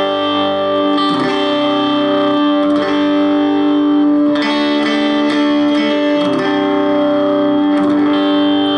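Electric guitar played through a Hehku tube preamp's basic channel, with EF86 tubes, after a boost and compressor pedal, into a 1-watt Palmer amplifier. Sustained chords, each held for a couple of seconds before the next.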